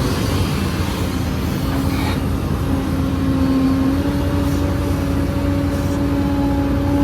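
Heavy diesel earthmoving machinery running steadily, with a steady whine that grows louder about two and a half seconds in.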